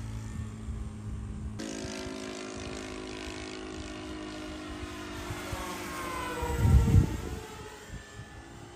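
Electric model aircraft's motor and propeller whining steadily in flight, the pitch sliding as it changes speed or passes, with a loud low rumble about seven seconds in.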